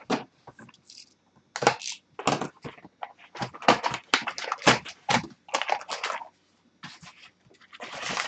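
Sealed hockey card box and its wrapped packs being torn open and handled: a run of sharp, irregular crackling and tearing noises.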